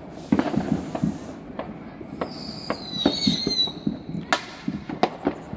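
Fireworks going off all around, popping and cracking repeatedly. A high wavering whistle runs for about a second and a half starting about two seconds in, and a louder crack comes a little after four seconds.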